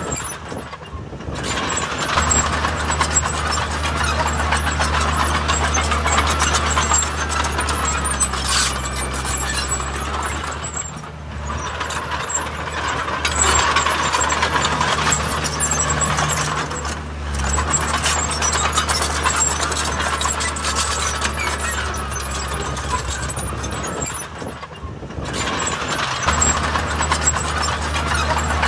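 Diesel engines of heavy earthmoving machinery running hard, a steady low engine note under a wash of mechanical noise that eases off briefly a few times before picking up again.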